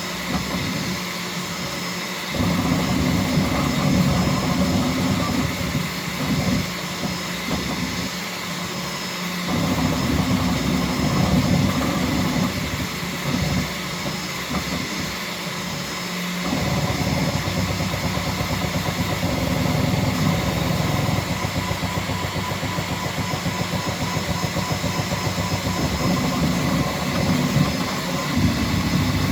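Bambu Lab X1C 3D printer printing at high speed: its stepper motors whir as the print head and bed move, the sound shifting every few seconds as the moves change, over a steady high whine.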